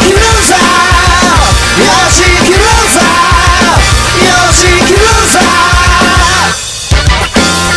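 Rock band music: drums and bass under a bending melodic lead line. There is a brief drop-out about six and a half seconds in, then the band comes back in.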